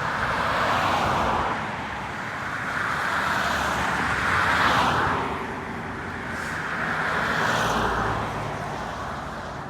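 Road vehicles driving past one after another: three swells of traffic noise that rise and fade, about a second in, near the middle and near the end.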